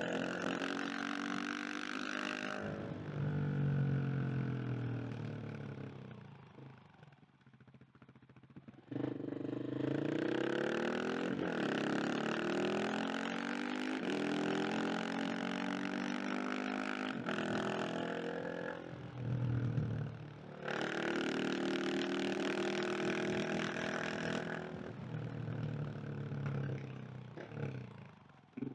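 KTM 690 SMC R single-cylinder engine being ridden hard. It eases off to a quieter note for several seconds, then accelerates strongly with rising revs about nine seconds in. It drops off briefly again and picks back up, easing off near the end.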